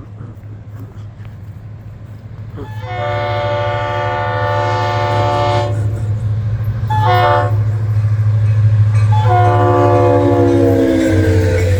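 Diesel locomotive of a Florida East Coast train approaching and passing, its engine rumble growing louder under three horn blasts: long, short, then long. The last blast falls in pitch as the locomotive goes by.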